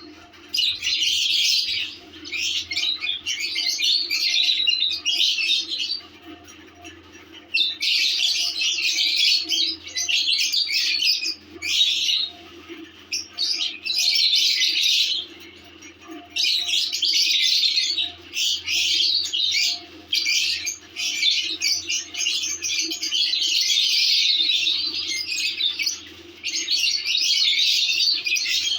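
Lovebirds chattering: long runs of rapid high-pitched chirps and squawks, broken by a few short pauses.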